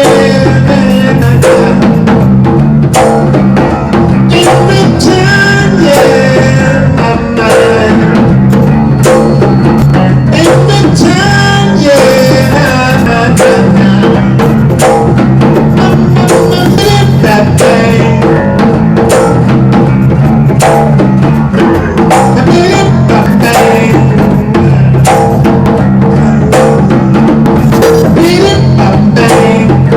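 Live electric bass and percussion playing a steady groove, with many sharp drum strikes, and a voice singing in phrases over it at times.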